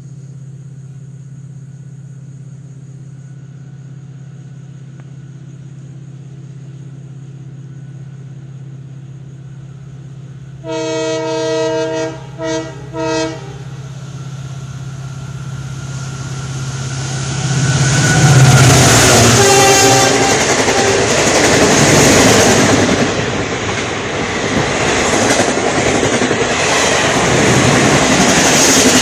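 Indian Railways express train approaching and passing at speed. Over a low steady hum, the locomotive horn sounds one long blast and then two short ones about eleven seconds in. The train's rumble then grows until the locomotive and coaches rush past from about eighteen seconds in, loud to the end.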